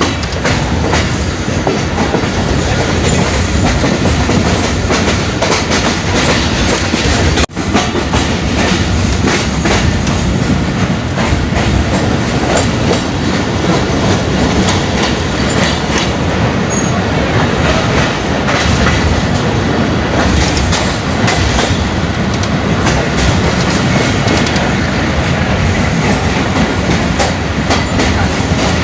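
Karachi Circular Railway passenger train running, its wheels clattering over the rail joints in a loud, steady rumble. The sound drops out for an instant about seven seconds in.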